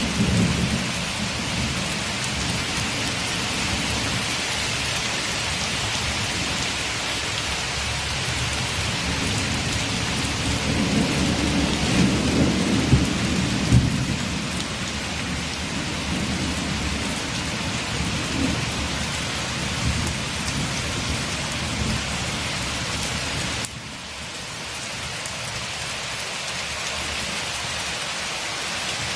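Steady rain falling on a window, with low rumbles of thunder rolling in just at the start and building to their loudest about ten to fourteen seconds in. The overall sound drops abruptly a little in level past the twenty-second mark.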